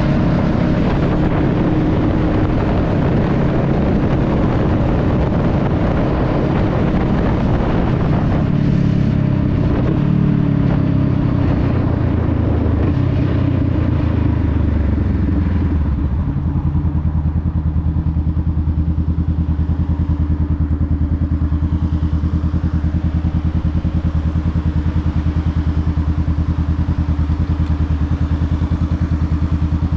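Honda Rebel 500's parallel-twin engine running under way with wind rush, then its pitch falls as the bike slows. About halfway through the wind rush drops away and the engine settles to a steady, evenly pulsing idle.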